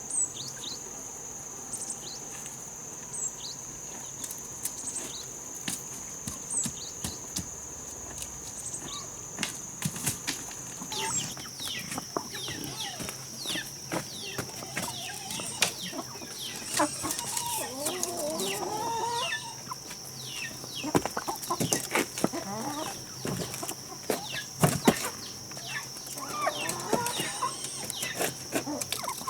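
Chickens clucking and flapping their wings, with a steady high-pitched insect drone and scattered sharp knocks throughout.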